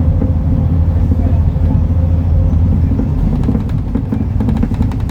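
MAN Lion's City NL293 city bus's six-cylinder diesel engine running with a steady low rumble. From about three and a half seconds in, a run of rapid rattling clicks joins it.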